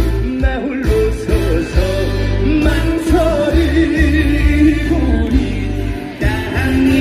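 A male voice singing a trot song live over an amplified backing track with a steady, pulsing bass beat.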